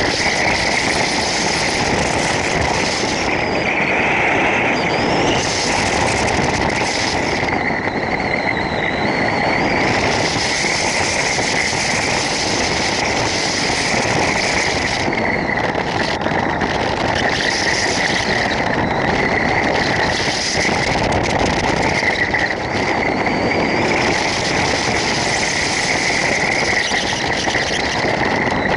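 Wind rushing hard over the microphone of a hang glider in flight: a loud, steady roar with a brighter hiss band in the upper-middle range.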